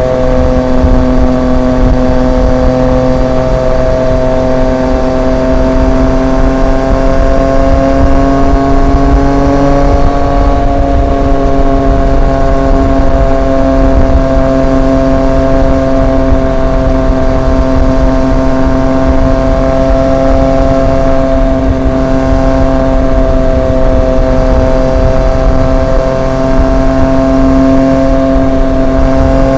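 Triumph Street Triple 765 RX's inline-three engine cruising at steady speed through an SC Project S1 exhaust, with low wind and road rumble. The engine note rises a little over the first ten seconds, then holds steady.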